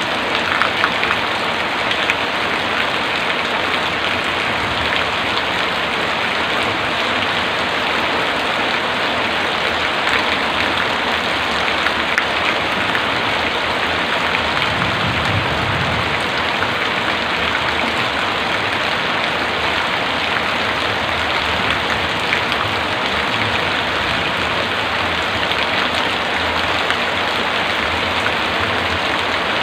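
Heavy rain falling steadily: a dense, even hiss of drops hitting surfaces. A brief low rumble comes about halfway through.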